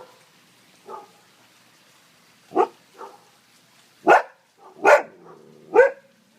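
Dog barking in short, separate barks: a few soft ones at first, then four louder barks spaced about a second apart over the second half.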